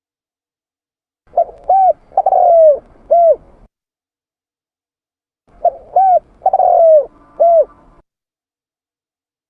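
Spotted dove cooing: two phrases a few seconds apart, each of two short coos, a longer falling coo and a final short coo.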